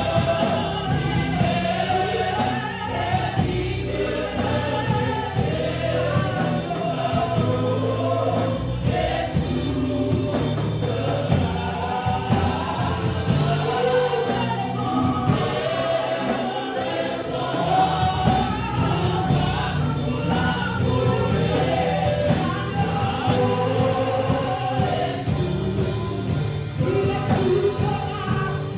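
Gospel worship music: several voices singing together over a band accompaniment.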